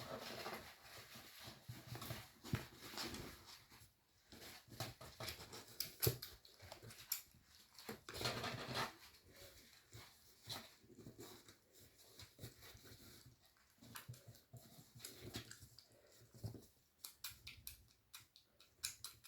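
Kittens making faint mewing and whimpering sounds, with scattered small clicks and rustles.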